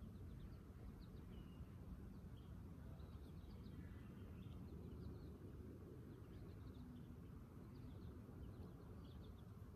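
Near silence: a quiet outdoor background with a low steady hum and faint, scattered bird chirps.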